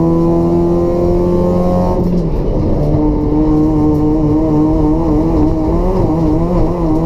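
Toyota Etios race car's 1.5-litre petrol engine with free-flow exhaust running hard under load, its note climbing steadily. About two seconds in the note breaks briefly and drops a little, then holds roughly steady with a slight wavering.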